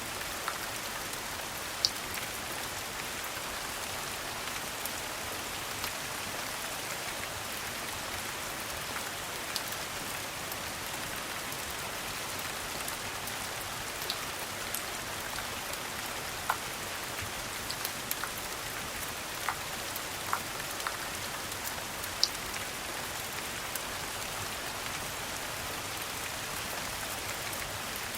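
Steady rain, an even hiss, with scattered sharp pops of a crackling wood fire over it.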